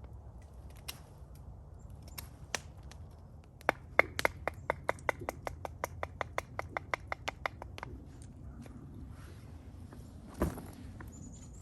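A quick, even run of about twenty sharp knife chops on a cutting board, about six a second, during food prep, followed by a single thump near the end.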